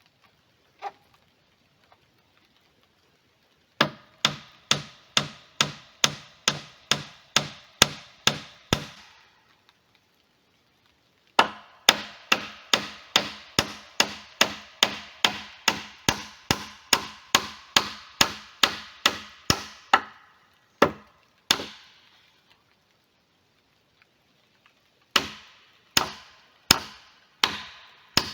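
Rapid, even hammer strikes on wood, about two to three a second, in runs broken by short pauses; each blow rings briefly.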